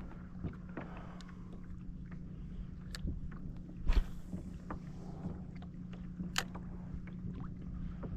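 Sounds of a pedal fishing kayak on the water: a steady low hum with scattered clicks and knocks, and one loud thump about four seconds in.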